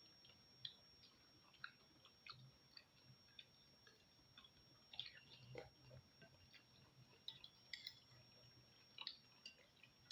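Faint eating sounds: soft, irregular mouth clicks and small wet pops of someone chewing food.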